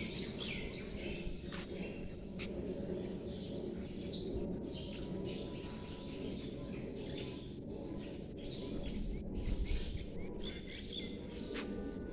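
Many small birds chirping continuously over a low, steady background rumble.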